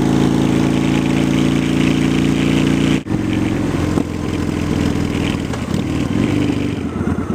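A 2003 Honda Shadow Spirit 750's V-twin engine through Cobra aftermarket pipes, running at a steady speed. After a sudden break about three seconds in, the engine note wavers and then turns into slower, evenly spaced pulses near the end.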